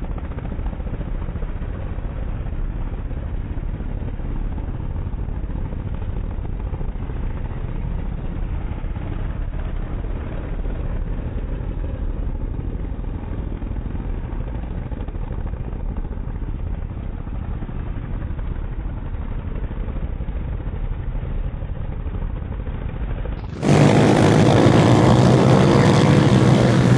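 A 160 cc pit bike's single-cylinder engine. For most of the time it is a dull, low, muffled rumble of rapid pulses. About 23 seconds in, a much louder, clearer engine sound with a steady pitch suddenly takes over.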